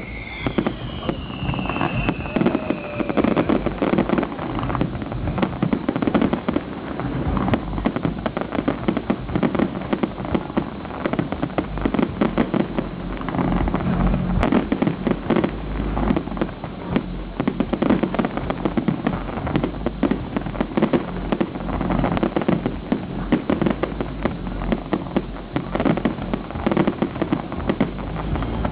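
Fireworks display going off: a dense, continuous crackle of many bangs and cracks at once, with a falling whistle in the first few seconds.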